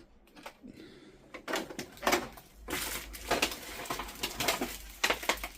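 Irregular crunching and crackling of debris, starting about a second and a half in and running as a string of sharp clicks.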